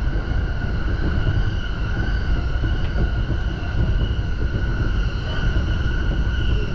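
JR Yamanote Line electric commuter train running between stations, heard from inside the car: a steady low rumble of wheels on rails with a steady high-pitched whine over it.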